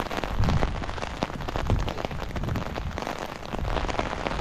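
Steady rain pattering on an umbrella canopy overhead, a dense spatter of drop hits, with a few low thumps.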